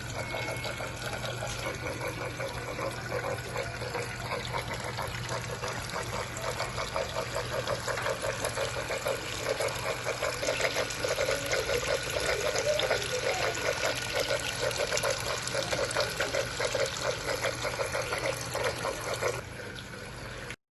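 Water trickling and splashing steadily in a small tabletop fountain, with a steady low hum underneath. The sound drops away near the end.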